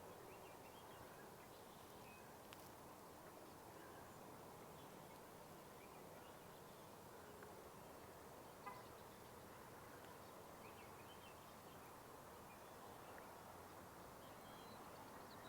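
Near silence: faint outdoor ambience with a steady low hiss and scattered faint, distant bird chirps, and one faint tick about halfway through.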